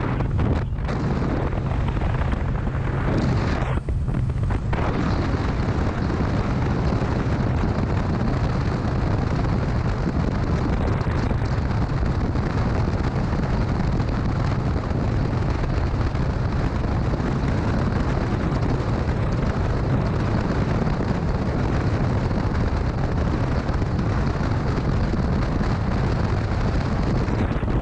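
Wind rushing and buffeting over the microphone of a moving motorcycle, with the engine running steadily underneath.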